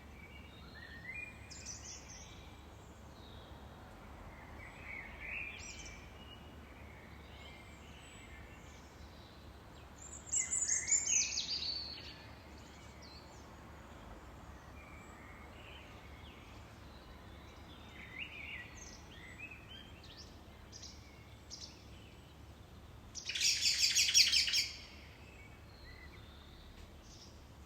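Songbirds singing and calling in scattered short chirps and whistles, with a loud falling phrase about ten seconds in and a loud rapid trill of quickly repeated notes near the end, over a faint steady low background.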